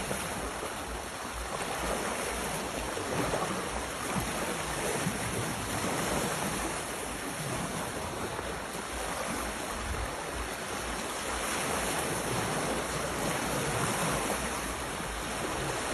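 Sea surf washing in, a steady hiss that swells and eases every few seconds, with wind buffeting the microphone.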